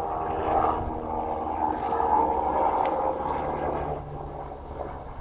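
A motor running, with several steady tones that grow louder toward the middle and fade near the end, like a passing engine.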